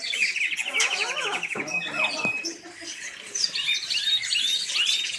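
Domestic canary singing: rapid trills and rising and falling whistled notes, with a brief pause about halfway through.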